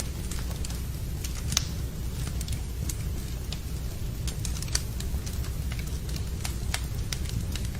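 Wood fire burning in a fireplace, crackling with irregular sharp pops over a steady low rumble, two louder pops standing out about a second and a half and nearly five seconds in.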